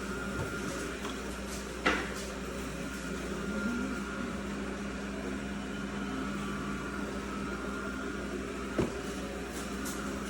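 iRobot Roomba 692 robot vacuum running with a steady motor whir, broken by two sharp knocks, one about two seconds in and one near the end.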